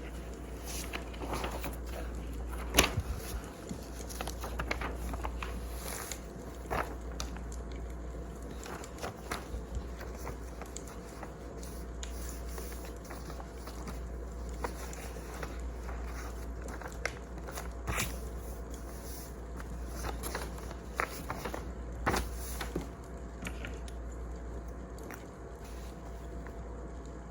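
Wood fire crackling, with irregular sharp pops and snaps (the loudest about three seconds in and again near the end) over a steady low rumble.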